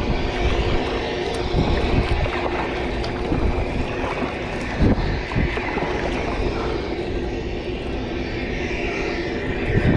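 Steady mechanical hum with several even tones, over a rush of waves and wind on the microphone, with a few dull knocks.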